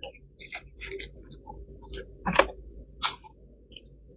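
Eating sounds: scattered short clicks and crackles as fried food is pulled apart by hand and chewed.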